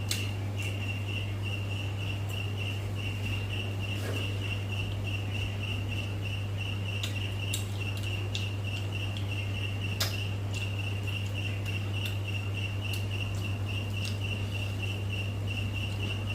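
A cricket chirring in a steady, fast-pulsed high trill over a constant low hum, with a few sharp clicks.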